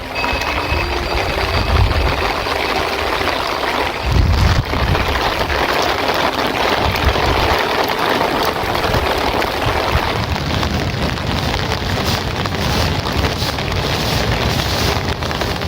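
Heavy rain falling steadily, with wind buffeting the microphone in low rumbles near the start and again about four seconds in.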